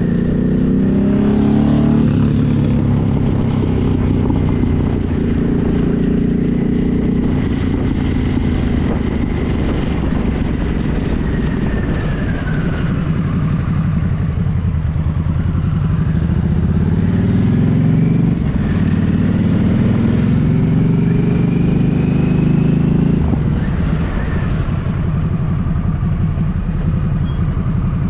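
Motorcycle engine running under way, climbing in revs about a second in and again a little past halfway, and easing off in between.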